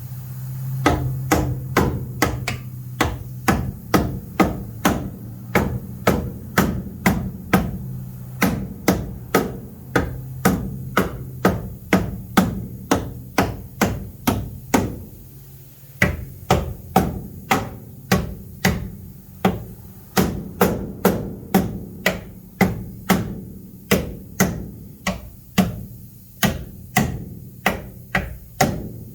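Heavy hammer pounding sheet metal on a Jeep Comanche's body in steady, repeated blows about two a second, with a brief pause about halfway: the metal is being folded in to clear larger tires.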